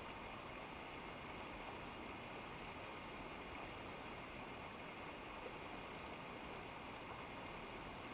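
Steady rush of running water from a mountain river or waterfall: an even hiss with no breaks.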